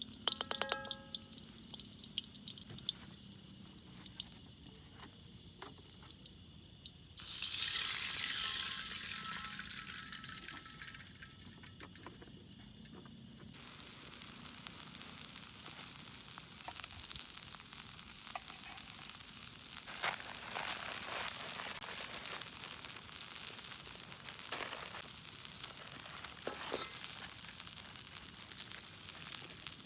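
Food frying in a hot pan. The sizzle starts suddenly about a quarter of the way in, when the food hits the fat, then settles into a steady crackling sizzle, preceded by a few light clinks.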